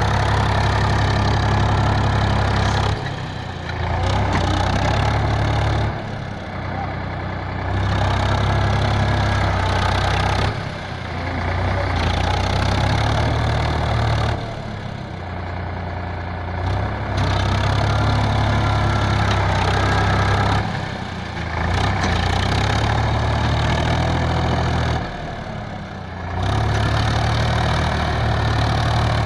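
Tractor engine running steadily. Its sound drops off for a second or two about every four seconds, then comes back up to full level.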